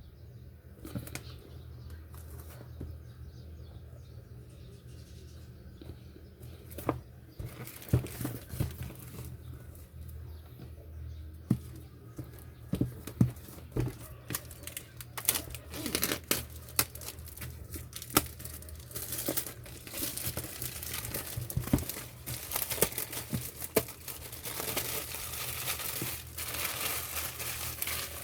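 Power supply packaging being handled and opened: packaging crinkling and rustling, with scattered sharp knocks, growing denser after about twenty seconds. A steady low hum sits underneath.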